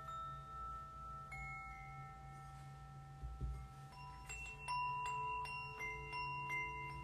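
Tuned metal percussion ringing in long sustained notes, with a fresh note about a second in. From about four seconds in, a quick run of strikes adds several brighter ringing tones that overlap and hang on.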